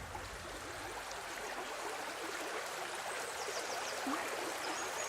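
Steady running water of a stream, an even rushing babble, with faint high chirps near the end.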